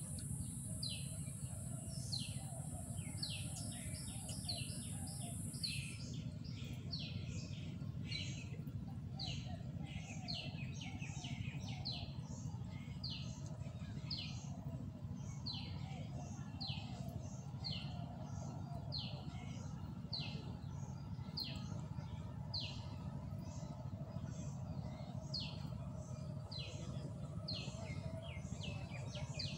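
Birds calling, one repeating a short, high, falling note more than once a second, over a steady low background hum. A high steady buzz stops suddenly about six seconds in.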